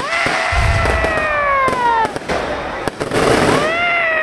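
Fireworks display: a low boom and sharp crackling pops under several long whistling tones that slide down in pitch, with more whistles overlapping near the end.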